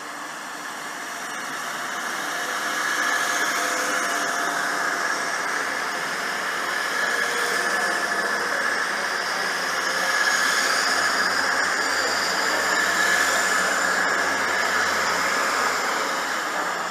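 Diesel multiple unit train running at a station platform: a steady engine drone with several held whining tones, building over the first few seconds and easing off near the end.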